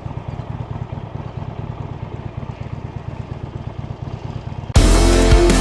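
Harley-Davidson Sportster Iron 883's air-cooled V-twin running at low revs with an even, low pulsing beat. Near the end a loud rock track with electric guitar cuts in abruptly.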